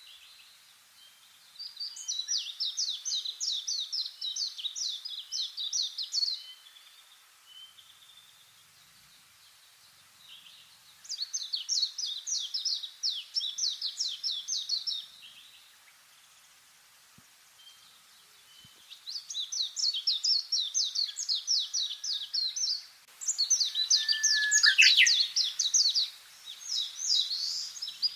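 Songbird singing: repeated phrases of rapid high notes, each about three to five seconds long, separated by pauses of a few seconds. Near the end the phrases come closer together and a short lower call joins in.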